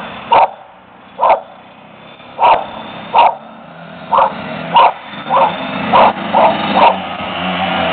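A dog barking repeatedly, about ten sharp barks a half-second to a second apart. Under the barks a small motorbike engine runs, getting louder near the end.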